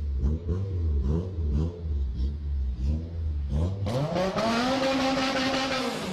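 Honda K20 four-cylinder engine revving in short repeated blips, then, a little under four seconds in, pulling hard under full acceleration: its pitch sweeps up, holds high, and drops sharply near the end as the revs fall.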